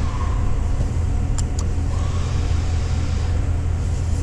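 Chevrolet Tahoe's engine idling, a steady low hum heard from inside the cabin, with two light clicks about a second and a half in.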